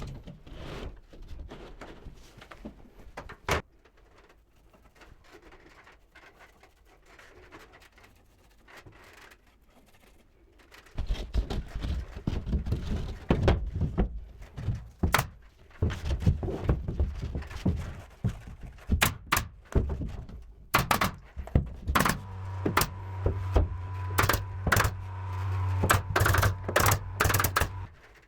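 Carpentry work on wooden boards: a few scattered knocks, then from about a third of the way in a busy run of thuds and sharp clacks of wood and tools. Near the end a small motor runs steadily for several seconds while the clacks continue.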